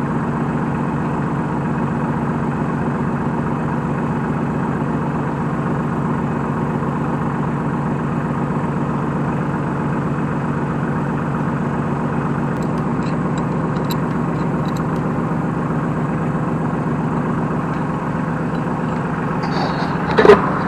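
Compact New Holland T1510 tractor's diesel engine idling steadily, with faint light clicks midway and a brief louder noise just before the end.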